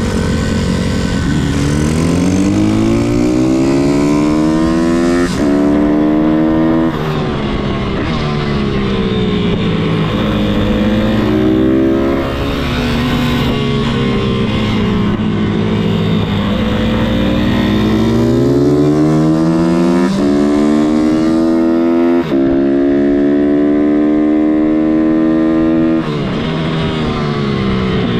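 An MRF 160-R SM pit bike's single-cylinder four-stroke engine, ridden hard lap after lap. The pitch climbs repeatedly as it accelerates and drops sharply at gear changes, with slower falls where the throttle closes for corners.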